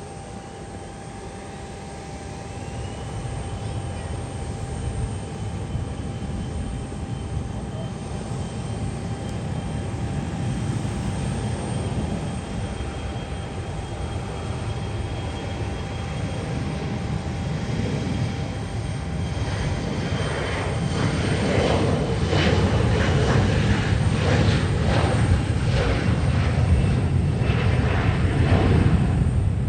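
Airliner engines running and growing steadily louder as the aircraft comes closer, with a whine that rises about two seconds in and then holds a steady high pitch. From about twenty seconds in a louder, rougher engine roar takes over.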